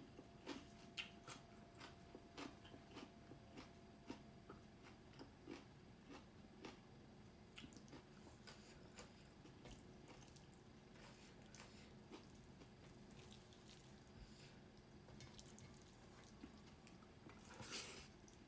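Faint wet eating sounds up close: many small clicks, smacks and squishes of chewing soft dhido and chicken curry, with a short, louder hissing noise near the end.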